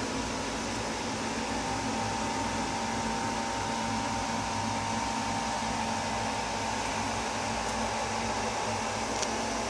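A steady motor-driven whir, like a fan or blower, with a faint high steady hum running through it.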